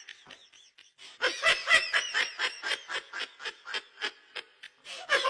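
A rapid run of short, high-pitched laughing sounds, about five a second, starting about a second in.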